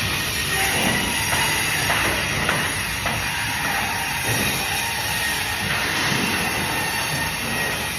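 Band saw running steadily while cutting fish: a steady high whine over a continuous hiss.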